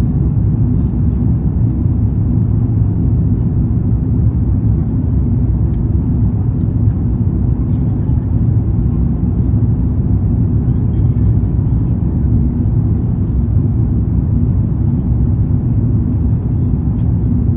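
Steady low rumble of an airliner's engines and airflow heard from inside the passenger cabin as the plane comes in to land.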